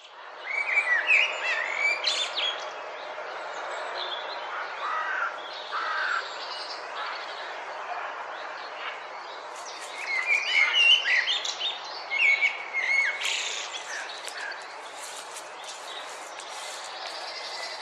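Several songbirds singing at once, overlapping warbled phrases and chirps over a steady background hiss. The singing is busiest near the start and again about ten seconds in.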